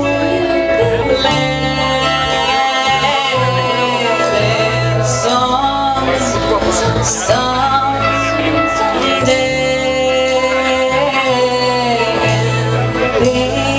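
A band playing live: a voice singing a melody over guitar, with long, held bass notes underneath.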